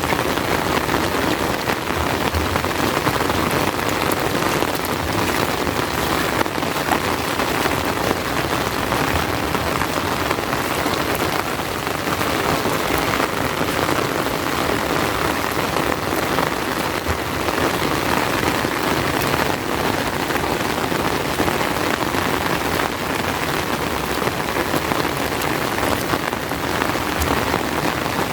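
Heavy rain falling steadily, a dense, even hiss of many drops that holds at one level throughout.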